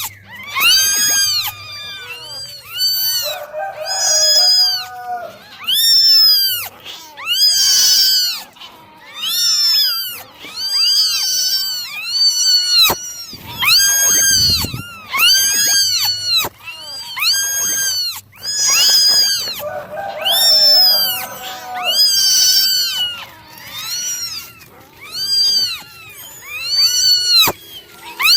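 Kittens meowing over and over in high-pitched calls, about one a second, with calls overlapping one another. A few lower, longer calls come in twice.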